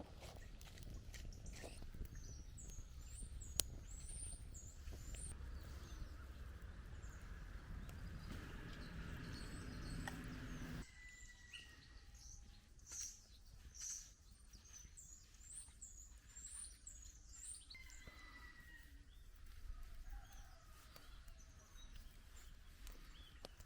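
Faint songbirds singing, with a repeated high warbled phrase and a thin whistled note. A steady low rush of background noise cuts off abruptly about halfway through.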